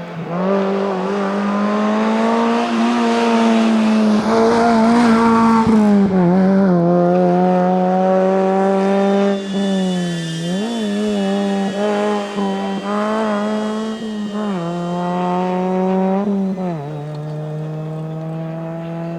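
Rally car engine held at high revs, its pitch dropping briefly and climbing back several times as the driver lifts and changes gear. Harsh tyre noise runs under the engine for the first six seconds or so.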